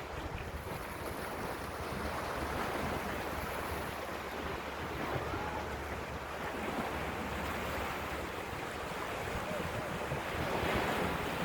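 Sea waves washing against the shore, with wind rumbling on the microphone; the surf swells louder near the end.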